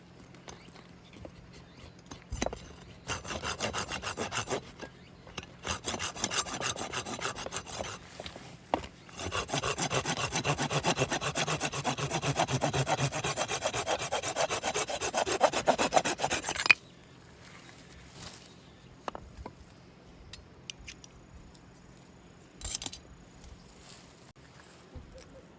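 A hand tool working wood in rapid back-and-forth strokes, sawing or rasping through it. The strokes come in spells, run fastest and steadiest through the middle, and stop abruptly, with only a few faint clicks after.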